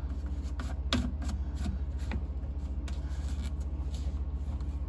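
Plastic sink drain pipe fittings being handled and tightened: a few sharp clicks and knocks, the loudest about a second in, over a steady low hum.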